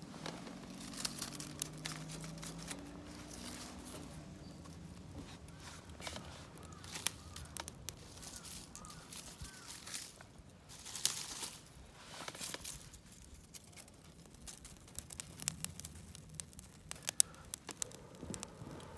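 Rustling and crinkling of material being handled, with scattered sharp clicks and a few louder crinkly bursts.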